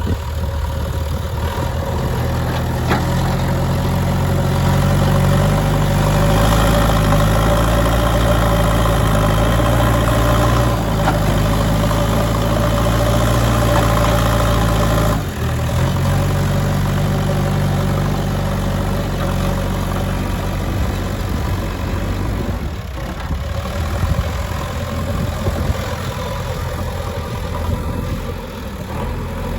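JCB 3DX backhoe loader's diesel engine working under load: it revs up a few seconds in and holds high, drops suddenly about halfway, revs up again, then eases back toward a lower speed for the rest.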